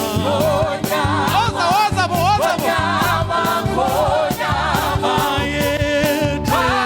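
Gospel music: voices singing a wavering melody over a band with a steady drum beat.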